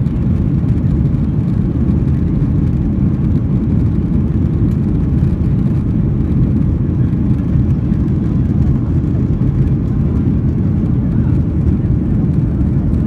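Airliner cabin noise: the steady low rumble of jet engines and rushing air, unchanging throughout.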